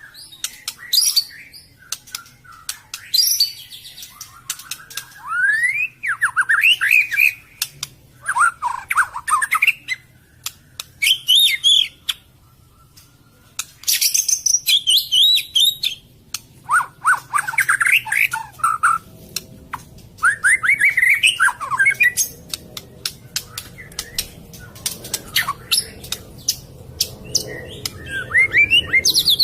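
White-rumped shama (murai batu) singing: a run of varied song phrases, each a quick series of rising and falling whistled notes, separated by short pauses and mixed with many sharp clicks.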